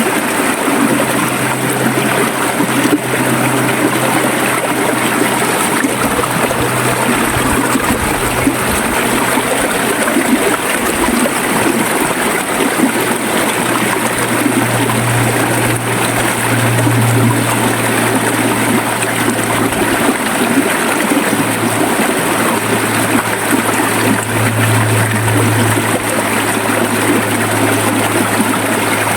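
Flowing river water, a steady rushing noise with a low hum underneath that swells and fades a few times.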